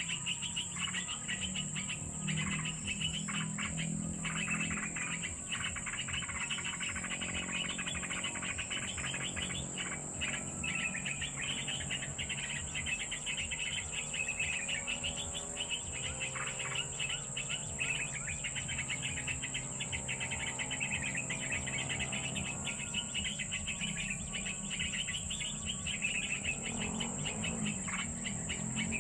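Birds chirping and twittering rapidly and continuously over a steady high-pitched insect drone, with a low humming tone underneath.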